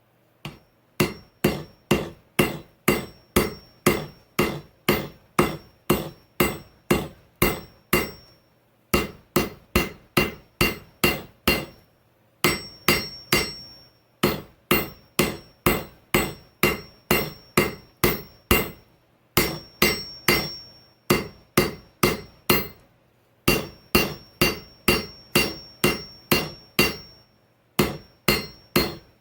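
Blacksmith's hammer striking steel on an anvil while forging a file into a knife blade: about two blows a second in runs with short pauses between, each blow with a high ring.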